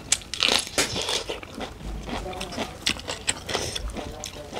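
Close-up eating sounds: biting and chewing raw leafy greens with rice and curry, with many short irregular crunches and wet mouth clicks.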